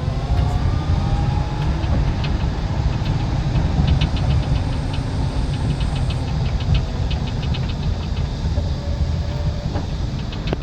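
Small electric car driving, heard as a steady low rumble of tyre and wind noise, with a run of light ticks from about three to seven seconds in.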